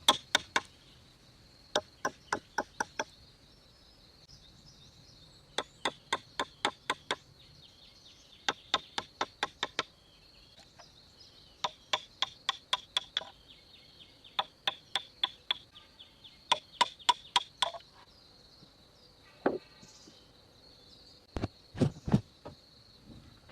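Runs of sharp wooden knocks, about five strikes a second in bursts of five to eight, as a hand tool strikes wood, with a few duller thuds near the end. A steady high insect drone runs underneath.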